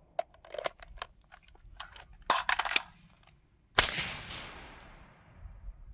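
A single suppressed pistol shot about two-thirds of the way in, its report fading slowly. Before it comes a run of sharp clicks and clatter.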